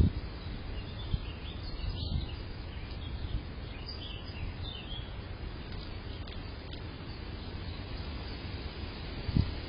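Faint, short bird chirps over a steady low rumble of wind noise on the microphone.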